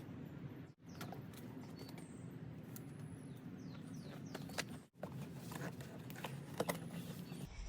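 A key scraping and tearing through packing tape on a cardboard box, with scattered clicks and rustling and a low steady rumble underneath. The sound breaks off sharply twice.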